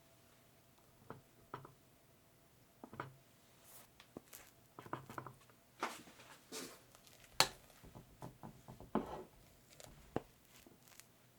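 Soft, scattered taps, clicks and light scraping of kitchen utensils and dishes while a strawberry cream cake is assembled, with one sharper click about halfway through.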